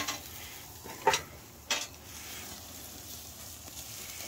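Food sizzling as it fries, with sharp clinks of a metal utensil at the start, about a second in, and again shortly after.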